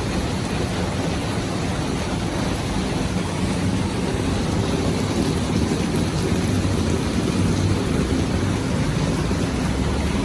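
Heavy rain making a steady rushing noise, with a low rumble underneath.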